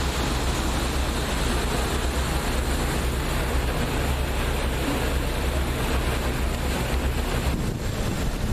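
A passenger boat under way on a lake: steady rushing of wind and water with a low, constant engine rumble underneath.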